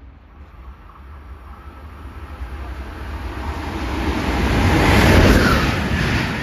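Frecciarossa high-speed electric train approaching and running past along the platform: a rumble and rush of noise that grows steadily louder, loudest about five seconds in.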